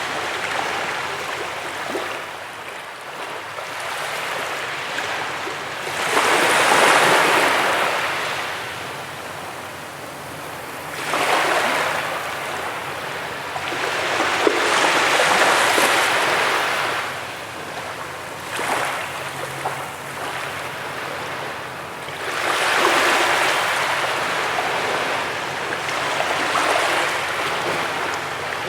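Sea waves breaking and washing on a beach, each wave swelling into a louder wash and fading back, about four times.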